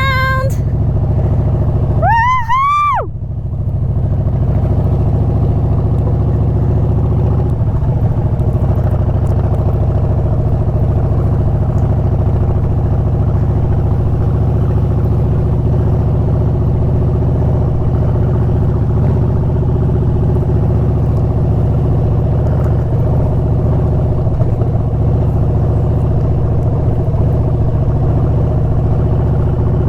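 Harley-Davidson V-twin motorcycle engine running steadily at low riding speed, a low rumble heard from the rider's seat. About two seconds in, a short whoop rises and falls over it.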